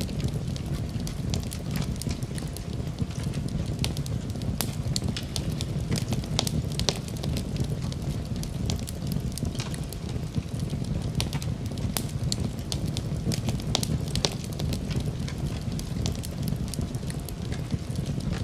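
Fireplace fire burning: a steady low rumble of flames with frequent, irregular sharp crackles and pops.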